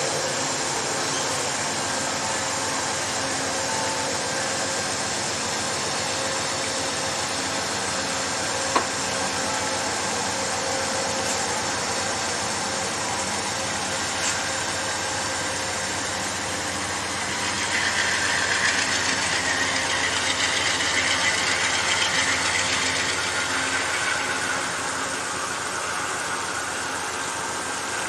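Amtrak diesel locomotive engine running steadily as the passenger train starts to pull out. From about two-thirds of the way in, a louder rushing of the moving train rises over it, then eases off near the end, with one sharp click about a third of the way in.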